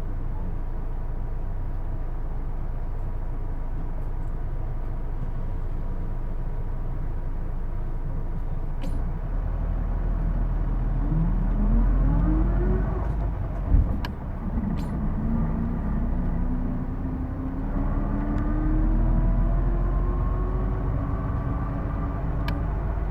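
Interior sound of a Hino Blue Ribbon II city bus: a steady low rumble, then the bus pulls away with rising whines from the engine and driveline. A single clunk comes about two-thirds of the way through, then the whine climbs again. The uploader calls the bus's distinctive transmission whine automatic-like.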